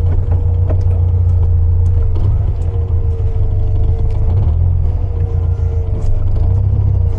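The air-cooled 1915cc flat-four engine of a 1974 VW 1303S Super Beetle running as the car creeps along at low speed, heard from inside the cabin as a steady low rumble with a faint steady whine above it.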